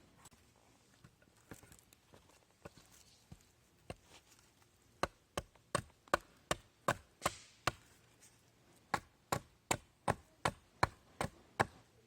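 Wood being chopped: two runs of sharp, rapid knocks, about two or three a second, after a few quiet seconds, with a short pause between the runs.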